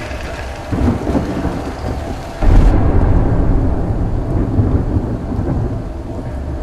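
Thunderstorm sound effect: rain with rolling thunder that swells about a second in and breaks into a loud, deep rumble about two and a half seconds in, then slowly dies away.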